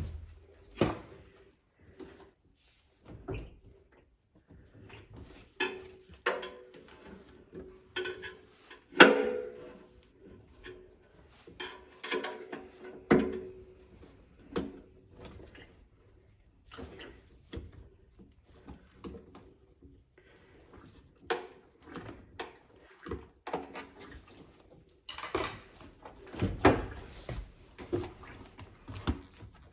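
Irregular knocks, clicks and clatter of hands working on a front-loading washing machine while its door seal is being replaced, the loudest knock about nine seconds in.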